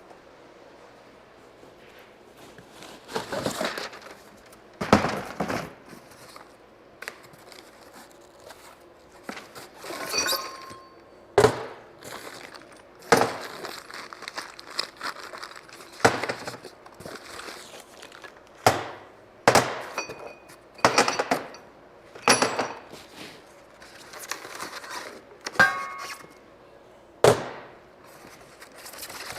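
Steel engine stand parts being unpacked and handled, clanking and knocking against each other and the floor. There are about a dozen sharp clanks, some ringing briefly like struck metal, with rustling in between.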